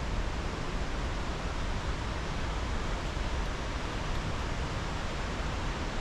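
Fast-flowing water rushing steadily, a stream swollen by heavy storm rain.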